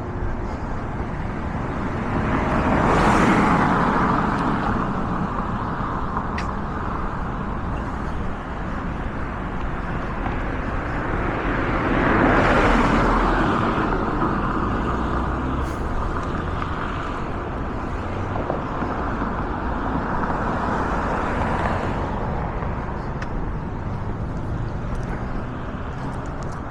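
Cars passing on a street, each a broad rising and fading whoosh of tyres and engine. The two loudest pass about 3 and 12 seconds in, weaker ones follow later, and a low steady rumble of traffic or wind runs underneath.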